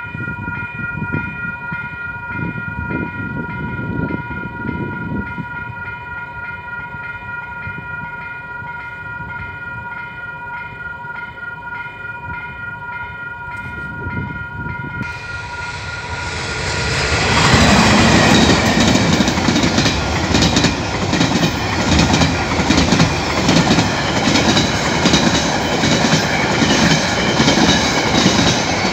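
Level crossing warning bell ringing in a steady repeating pattern. About sixteen seconds in, a train arrives and passes over the crossing, its wheels clattering over the rail joints in a fast rhythm, much louder than the bell.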